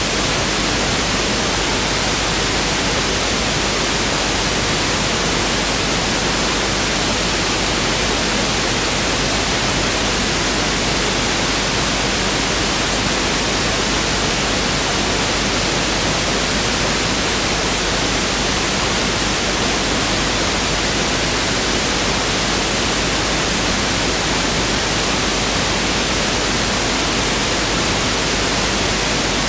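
Pink noise test signal: a steady, even hiss across the whole frequency range, unchanging throughout.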